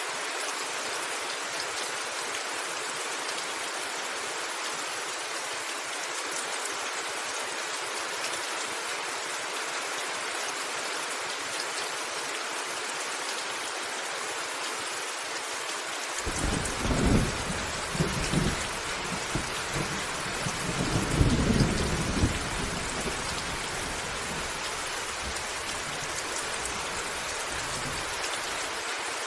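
Steady rain pattering on a roof, with a rolling peal of thunder that breaks in a little past halfway, swells twice and rumbles away over about ten seconds.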